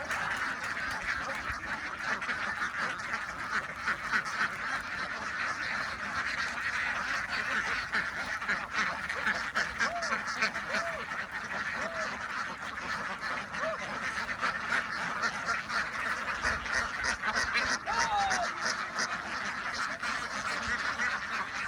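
A large flock of domestic ducks quacking all together in a dense, unbroken chatter.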